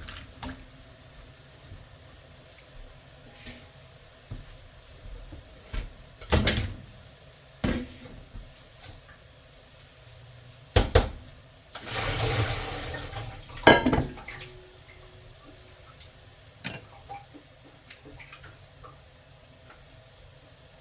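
Kitchen work sounds: a handful of sharp clinks and knocks of dishes and pots, with a short rush of water from a tap a little past the middle.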